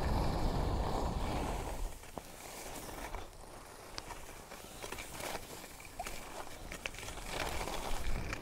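Wind buffeting the microphone, dying away after about two seconds. Then a quieter stretch of outdoor background with scattered faint clicks and crunches.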